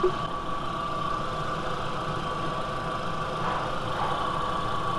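VW Mk IV Golf 2.0-litre inline-four engine idling steadily, with a steady high tone over the running sound, while it warms up and circulates fresh coolant after a thermostat replacement.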